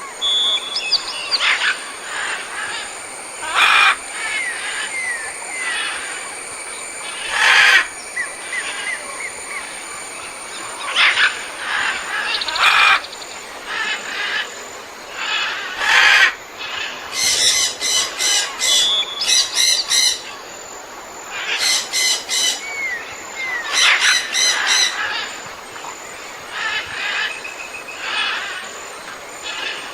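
Wild birds calling at a wetland bird sanctuary. Many short, harsh squawks come and go, with rapid rattling chatter in a few bouts and small downward-sliding whistled notes between them. A steady thin high tone runs underneath.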